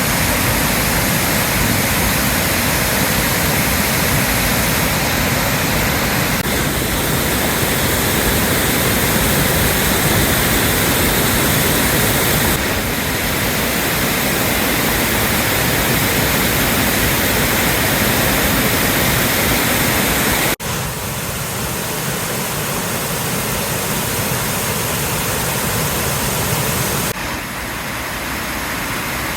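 Loud, steady rush of floodwater pouring and churning. Its level and tone shift abruptly several times.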